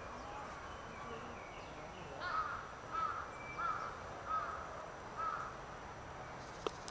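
A bird calling five times in short, arched notes about two-thirds of a second apart, followed near the end by a single sharp click.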